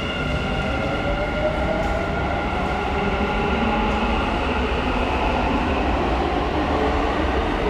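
Dubai Metro train running, its electric traction motors whining over a steady rumble; the whine rises in pitch over the first few seconds as the train picks up speed, then levels off.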